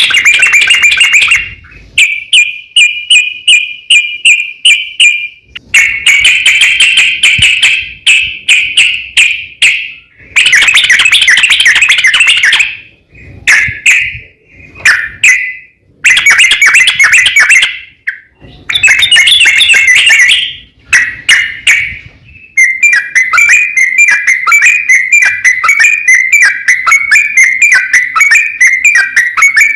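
Yellow-vented bulbul (trucukan) song: loud, rapid chattering trills in bursts of a few seconds separated by short pauses, then one long continuous trill from about two-thirds of the way through.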